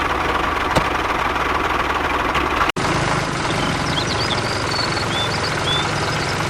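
An engine running steadily, as for a mini tractor, with a brief cut about three seconds in. Faint short high chirps sound around the middle.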